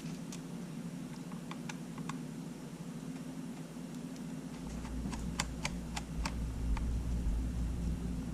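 Light, scattered clicks and taps of small metal tools and camera parts being handled during disassembly, with a quicker run of them about five to seven seconds in, over a steady low hum.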